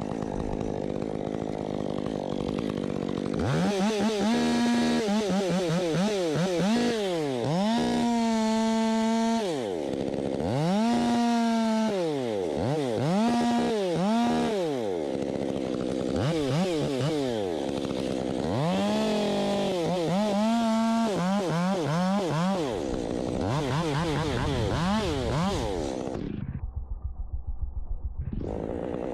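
Chainsaw engine revved up and let back down over and over, each rev climbing to a high steady pitch for a moment before falling away. Near the end it drops to a lower, rougher, pulsing run.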